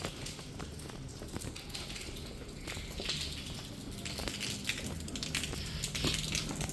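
Footsteps on a wet road: irregular crunching clicks, over a low steady hum that grows clearer about four seconds in.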